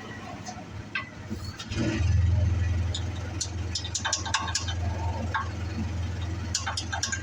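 A steady low machine hum comes on about two seconds in and keeps running, with scattered sharp metallic clinks and taps of hand tools on the truck's steering parts.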